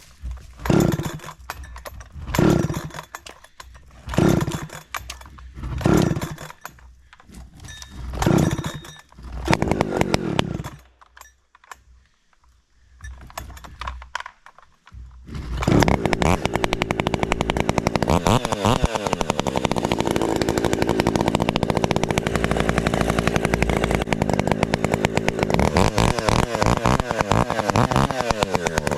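A 70cc-class gas chainsaw. It gives a string of short bursts about every second and a half, goes quiet for a few seconds, then from about halfway in runs continuously at high revs, with the pitch rising and falling a couple of times.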